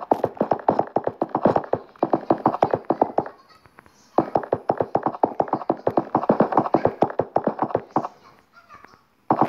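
Rapid run of light taps, about eight a second, in two stretches of several seconds with a short pause between them.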